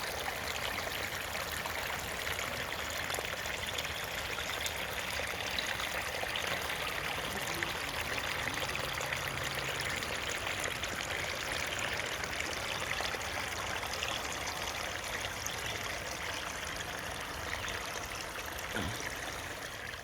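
Running water of a stream, a steady babbling and trickling.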